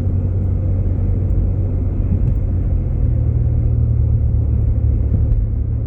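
Steady low rumble of a Jeep Grand Cherokee's engine and tyres on a snowy road, heard from inside the cabin as it rolls slowly.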